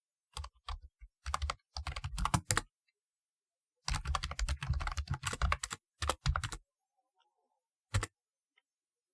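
Typing on a typewriter-style computer keyboard: quick runs of sharp key clacks in bursts, broken by a pause about three seconds in, then a single keystroke near the end.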